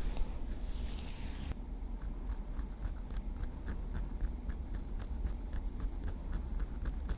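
Small wooden stick tapped lightly, a run of quick soft ticks at about four a second that starts a second and a half in, after a brief soft scratchy hiss.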